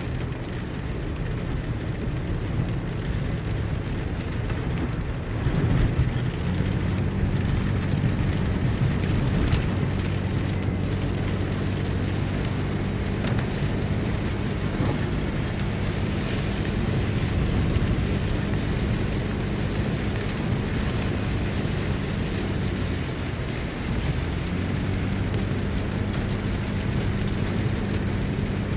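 Car driving in rain on a wet road: a steady low engine hum under an even hiss of rain and tyre noise. The engine note shifts briefly about six seconds in and again near the end.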